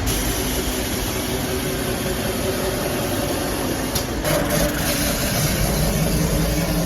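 CNC polishing machine running, its polishing head working stainless steel sink, a steady dense noise over a low hum. About four seconds in the sound changes briefly and a lower hum settles in.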